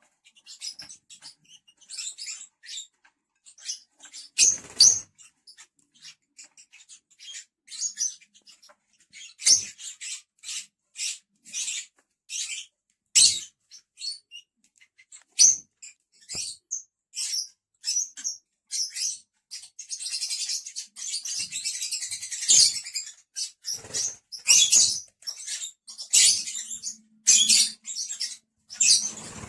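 Lovebirds giving many short, high-pitched chirps, one after another, with a stretch of denser continuous chattering about twenty seconds in.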